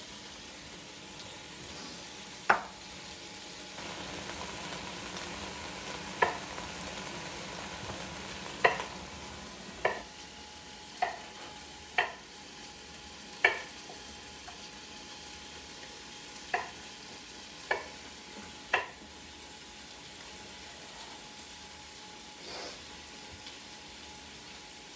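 Bacon and ham sizzling as they fry in a pot, a steady hiss, with about ten sharp knocks of kitchen utensils at irregular intervals in the first three quarters.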